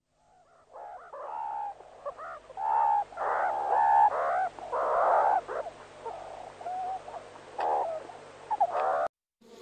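Meerkats calling while they play-fight: a run of many short, pitched squeals and chirps, some bending up and down in pitch, lasting about eight seconds.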